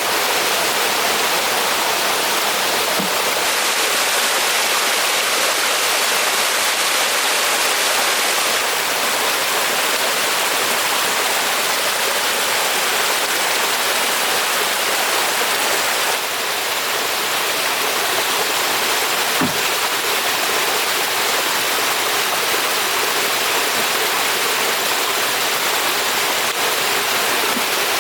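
Steady rushing of running water, an even hiss with no rhythm. There is a faint single knock about two-thirds of the way through.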